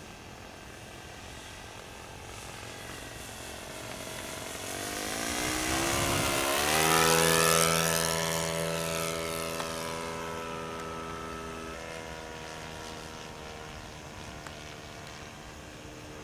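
A radio-controlled Cessna 182 model's ASP .61 glow engine and propeller at wide open throttle making a low flyby. The sound builds in loudness and rises in pitch, drops sharply in pitch as the plane passes about six seconds in, then fades away.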